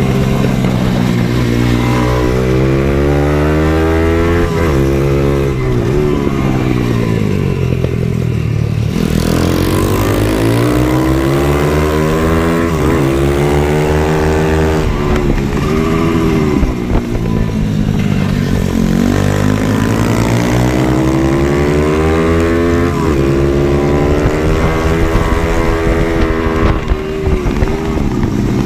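Supermoto pit bike engine accelerating hard and shifting up through the gears, over and over. Each time the pitch climbs for a few seconds, then drops sharply at the shift.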